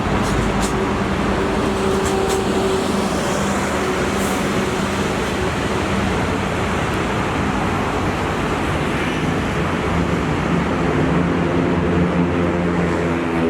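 Diesel-hauled passenger train running past: a steady rumble of wheels on rail with an engine hum that grows near the end, and a few sharp clicks in the first few seconds.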